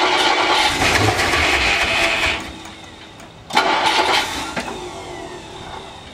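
Old Ford Thunderbird engine being cranked on the starter and trying to fire on a first start after long storage. It cuts out about two and a half seconds in, then gets a second, shorter burst a second later that dies away.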